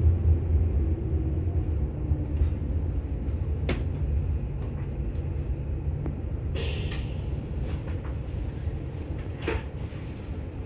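Low rumble of a train heard from inside the carriage as it pulls into a station, slowly getting quieter, with a couple of sharp clicks and a short hiss about two-thirds of the way through.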